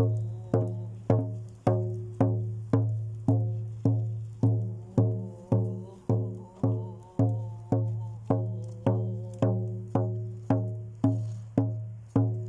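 Music: one low note plucked or struck over and over at a steady pace, a little under twice a second, each note ringing out and fading before the next.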